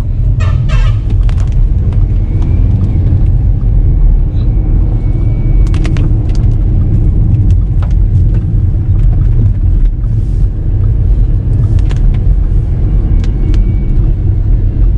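Steady low rumble of a car driving on a wet road, heard from inside the cabin, with scattered sharp clicks over it.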